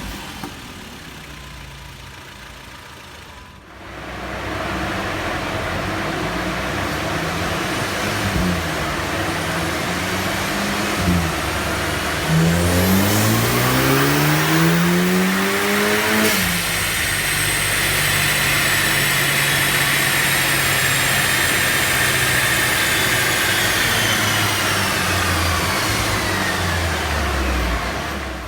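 Audi S1's turbocharged 2.0-litre four-cylinder engine and intake revving. It is quieter at first and much louder from about four seconds in, with a few short blips. About halfway through the revs climb steadily for several seconds and then cut off sharply, after which a high whine slowly falls away as the engine keeps running.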